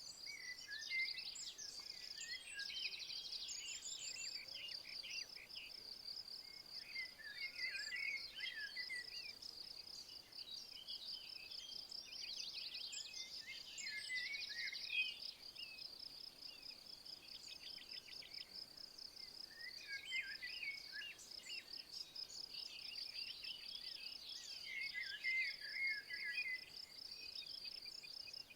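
A steady, high, fast-pulsing insect trill runs throughout. A songbird sings short twittering phrases over it every four to six seconds.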